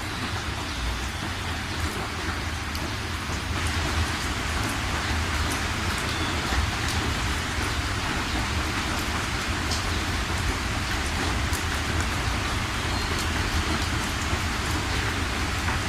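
Steady rain falling, a continuous hiss with scattered sharp drop ticks and a low rumble beneath.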